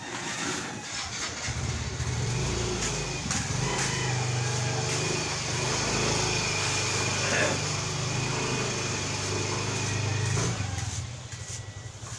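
A motor vehicle engine running with a steady low hum. It comes in about a second and a half in and fades away near the end.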